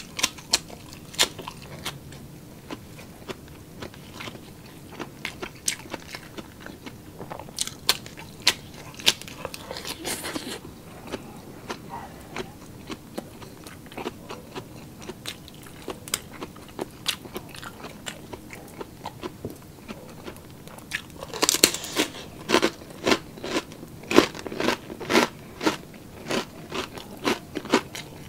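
A person chewing and crunching crisp food close to the microphone: sparse wet mouth clicks at first, then loud, rapid crunching from about two-thirds of the way through.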